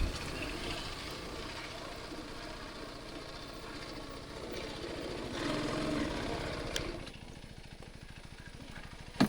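TVS Apache RTR 310's single-cylinder engine running at low revs, a steady low pulse that swells briefly past the middle and eases off after, with a sharp click near the end.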